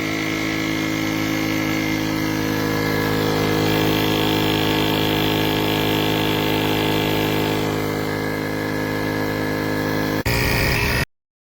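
Inzeetor 12V portable tire inflator's compressor running steadily with an even motor hum and buzz. About ten seconds in the sound changes briefly, then cuts off suddenly.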